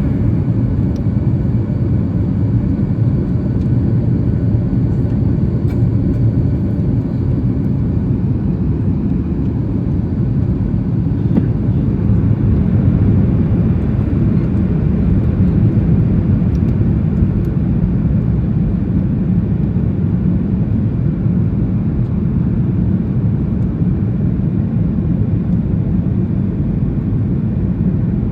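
Steady cabin noise of a Boeing 737 MAX 8 in flight during descent: an even, low rumble of airflow and engines.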